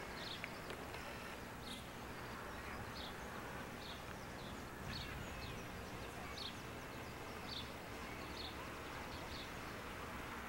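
A small bird chirping over and over, short high chirps roughly once a second at uneven intervals, over a steady background hiss and rumble.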